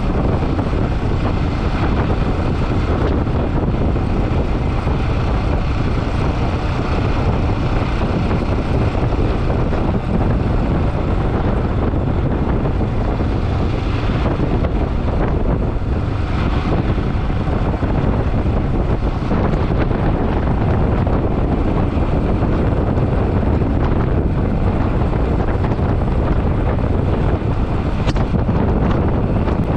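Steady wind rushing over the microphone, mixed with road and running noise from a motorcycle being ridden along at a constant pace.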